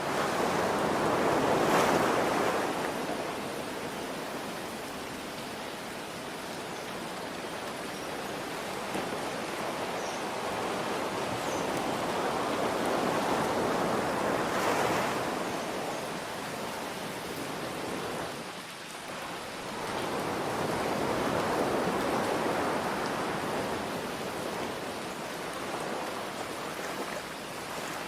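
Ocean waves breaking in slow swells, three times, over a steady hiss of rain.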